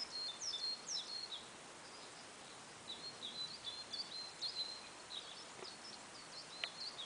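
Songbirds singing: quick high chirps and short whistled phrases in a busy run, pausing for about a second and a half around two seconds in, then starting up again.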